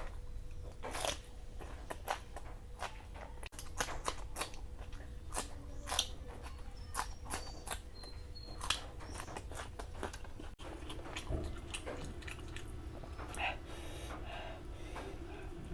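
Close-miked eating sounds: a person chewing and biting food, with many sharp, irregular crunches.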